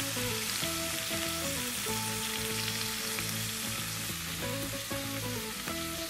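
Beef chunks with scallions and ginger sizzling as they fry in a clay pot, a steady hiss, with background music underneath.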